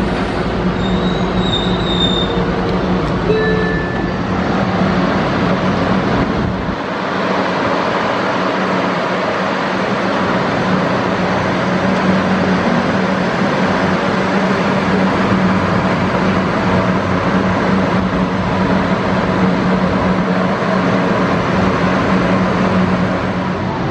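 Enoden electric train running, heard from inside the passenger car: a steady rumble of wheels and running gear with a low hum. A few short, high wheel squeals come in the first few seconds.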